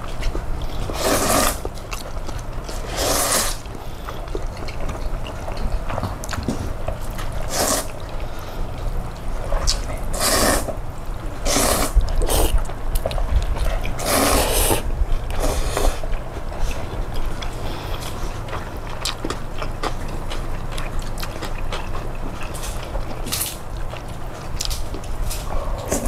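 Slurping of noodles in cold soybean soup: several short, wet slurps, most in the first half, over a steady low hum.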